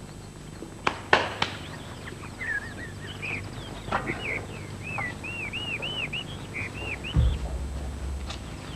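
Birds chirping in the background, a run of short rising-and-falling chirps, with a few sharp clicks about a second in and a dull thump near the end.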